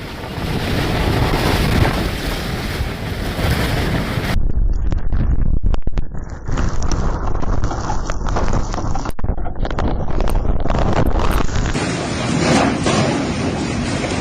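Storm wind gusting on the microphone, with surf, from several clips cut together. The sound changes abruptly about four seconds in and again near the end.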